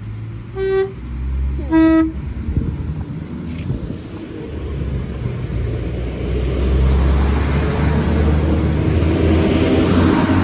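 Northern Class 195 diesel multiple unit sounding its two-tone horn, a short high note and then a lower one about a second later. Its engines and wheels then run steadily louder as it passes close along the platform.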